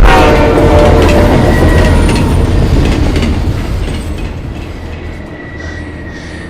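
Explosion in a film's sound mix: a sudden loud blast at the start, then a long rumbling roar that slowly fades over several seconds.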